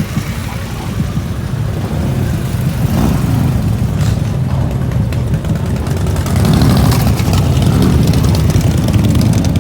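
A motor vehicle engine running, rising in pitch about three seconds in and again past the halfway point as it accelerates, then getting louder.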